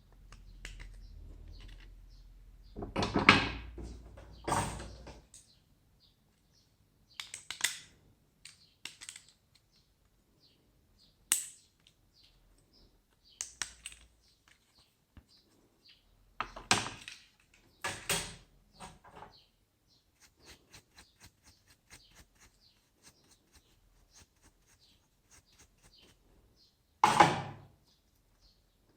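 Handling noise from laptop parts being worked on: a series of separate knocks, clicks and scrapes, loudest about 3 s in and near the end, with a run of faint quick ticks in between.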